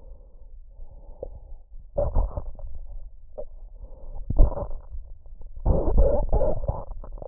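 Human swallowing sounds recorded close to the body: soft breath-like sounds, then louder bursts of swallowing about two seconds in, again around four and a half seconds, and a longer cluster from about six seconds, with a few short clicks between them.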